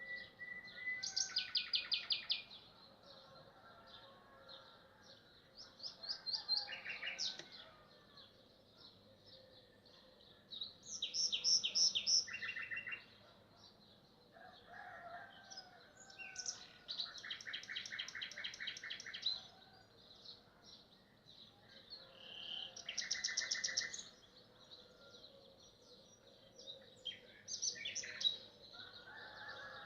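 A nightingale singing: loud phrases of rapid repeated notes and trills, each lasting one to three seconds, with pauses of a few seconds between them, about six phrases in all.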